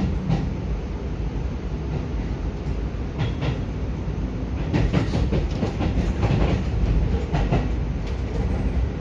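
Keio 5000-series commuter train running, heard from inside the passenger car: a steady low rumble of wheels and running gear. In the middle and later seconds there is a series of clicks and clacks from the wheels on the track.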